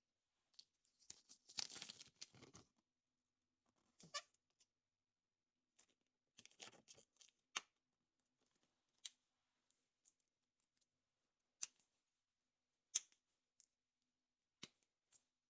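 Hand-handling noise from unwrapping and opening a foil-wrapped chocolate surprise egg: a crinkling rustle about a second in, a few shorter rustles, then a handful of separate sharp clicks of plastic capsule or toy parts.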